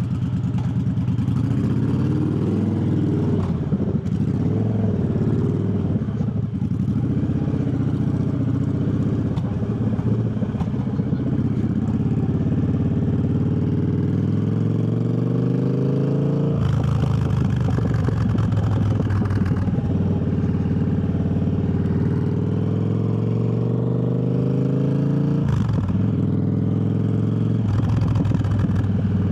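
Triumph Bobber's parallel-twin engine under way and pulling through the gears: its pitch wavers at low speed, then climbs steadily, drops suddenly at a gear change about halfway through, climbs again and drops at another shift near the end.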